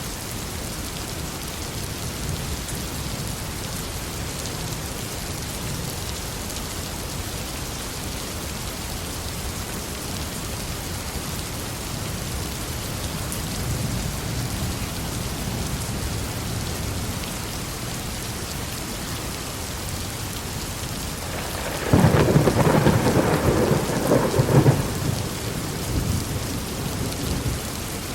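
Steady heavy rainfall with low rolling thunder; near the end a close thunderclap cracks in suddenly, the loudest sound, and rumbles away over several seconds.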